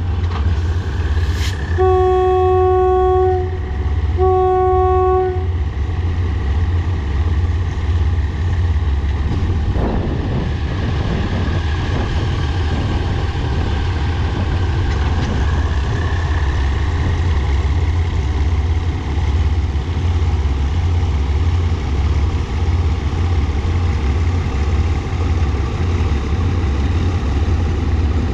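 Diesel locomotive horn sounds two blasts of about a second each, over the steady low rumble of locomotive diesel engines running. A single clank comes about ten seconds in.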